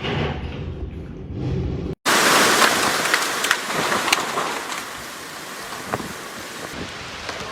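Storm wind and heavy rain: for about two seconds wind buffets the microphone with a low rumble, then after an abrupt cut a loud hiss of driving rain and wind carries on, with scattered sharp taps of drops hitting things near the microphone.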